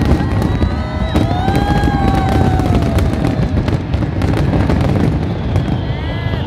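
Aerial fireworks bursting in quick succession: dense crackling over a continuous low rumble of booms, with a few rising and falling whistle-like tones above it. The crackling thins out near the end.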